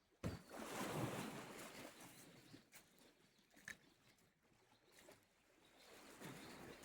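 Small sea waves washing onto the shore: one wave comes in suddenly just after the start and drains away over about two seconds, and a second swells in near the end. A short high chirp is heard about midway.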